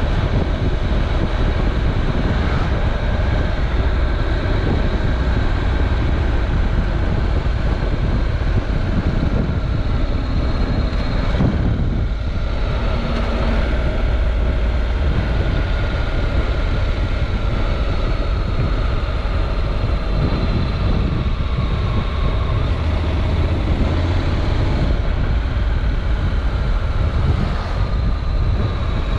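Honda NC700X parallel-twin motorcycle engine running at riding speed, its pitch slowly falling and rising, over a heavy steady rumble of wind on the on-board microphone.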